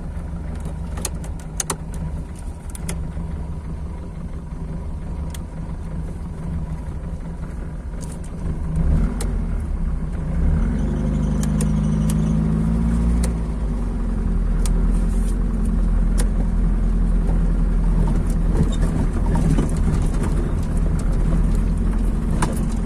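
Car engine idling, heard inside the cabin, then revving up about eight seconds in as the car pulls away and keeps running along a dirt road, with scattered sharp clicks and rattles.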